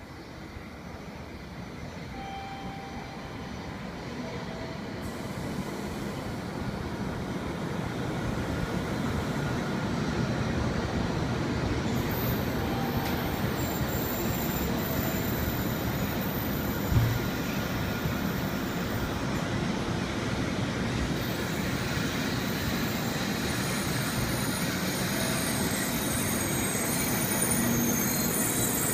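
Running noise of a Shinkansen bullet train heard from inside the passenger car, a steady rush that grows louder over the first ten seconds or so and then holds, with a single knock about seventeen seconds in.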